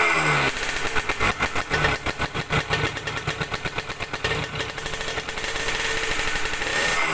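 Yamaha RS100's two-stroke single-cylinder engine settling from a rev into an uneven idle of sharp exhaust pulses, then picking up again near the end. The exhaust is holed (bobok, leaking).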